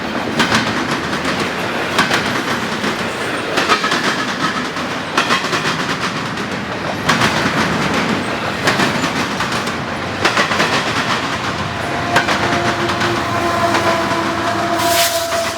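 A train rolling past, its wheels clacking over the rail joints in a regular beat about every second and a half, over a steady rumble. A steady tone sets in near the end.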